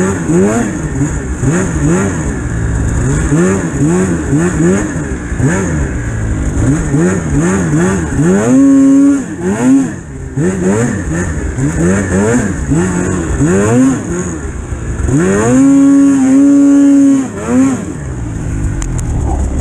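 Two-stroke Polaris Pro RMK 800 snowmobile engine revving up and down over and over with the throttle, held at high revs twice: briefly about halfway through and for a couple of seconds near the end.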